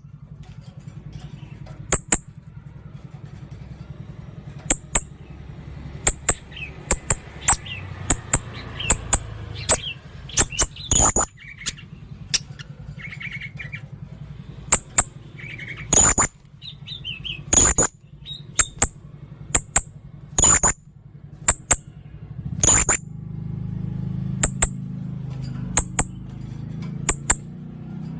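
A serindit (blue-crowned hanging parrot) gives short, very high, sharp chirps again and again at irregular intervals, a few of them louder, in the shrill bursts bird keepers call 'tembakan'. A steady low hum runs underneath and grows louder near the end.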